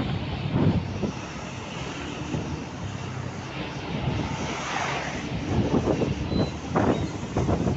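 Road traffic noise from trucks driving on a highway: a steady engine and tyre rumble with irregular rougher surges, and wind buffeting the microphone.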